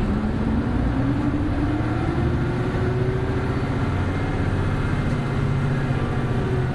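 Diesel engine of a Hino Blue Ribbon City Hybrid bus (BJG-HU8JLFP) pulling hard in second gear, heard from inside the cabin. Its pitch rises over the first few seconds and then holds high, over a steady low rumble.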